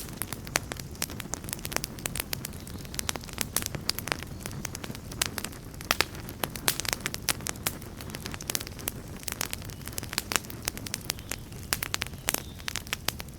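Campfire crackling, with irregular sharp pops and snaps over a low, steady rush of burning.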